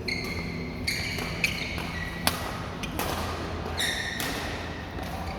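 Badminton play: three sharp racket hits on the shuttlecock in the first two and a half seconds, the last the loudest, with short squeaks of shoes on the court floor.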